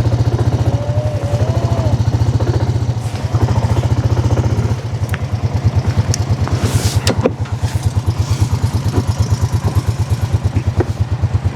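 Four-wheeler (ATV) engine running at low speed with a steady pulsing throb, easing to a more evenly beating idle about five seconds in. A couple of sharp clanks come partway through.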